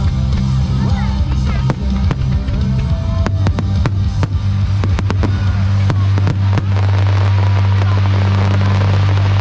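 Fireworks going off in many sharp bangs and crackles over loud music with a heavy bass. The bangs stop about two-thirds of the way in, leaving the music alone.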